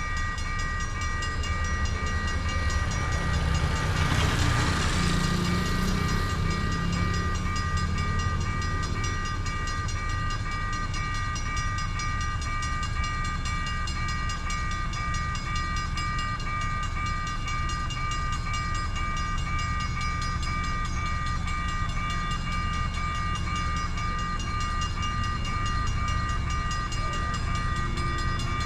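A train passing through a level crossing with a steady low rumble, while the crossing's warning signal holds a steady high tone. A louder rushing sound swells and fades about four to six seconds in.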